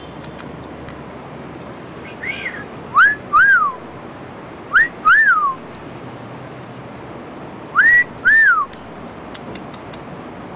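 A pet parrot whistling. It gives three pairs of two-note whistles a couple of seconds apart, each note sliding up and then down. A few light clicks come near the end.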